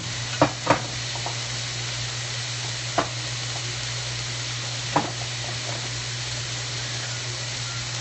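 Diced chicken and basil sizzling in a hot wok over a steady low hum, with a stirring utensil knocking against the wok four times: twice in quick succession near the start, then once about three seconds in and once about five seconds in.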